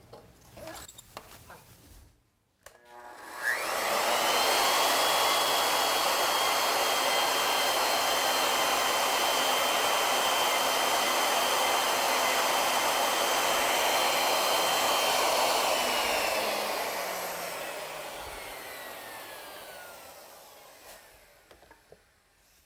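Router fitted with a 2-flute straight cutter on an ornamental mill: it starts about three seconds in with a rising whine, runs steadily for about twelve seconds, then is switched off and winds down with a falling whine.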